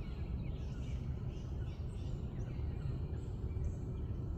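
A bird calling repeatedly in short high calls, a little under two a second, over a steady low rumble.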